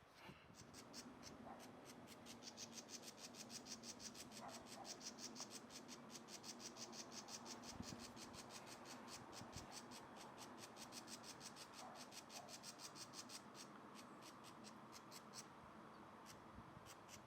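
Downy woodpecker pecking at wood: a long, steady run of light, quick taps, several a second. The taps stop about three-quarters of the way in, and a few more come near the end.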